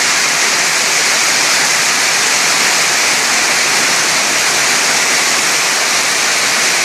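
Heavy rain falling, a steady loud hiss with no let-up.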